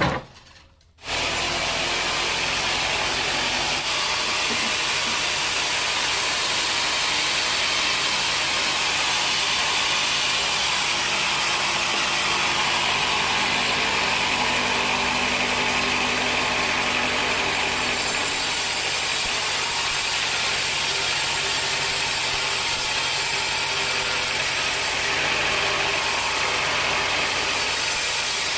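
Sawmill machinery running with a loud, steady mechanical noise that starts about a second in and holds at one level.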